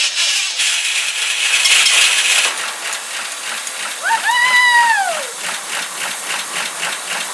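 1971 Ford F-100's engine cranking and firing up, running for the first time in 15 years. About four seconds in, a person lets out a long whoop that rises and falls.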